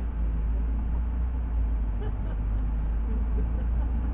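LiAZ 6213.65 articulated city bus in motion, heard from inside the passenger cabin: a steady low engine and road rumble.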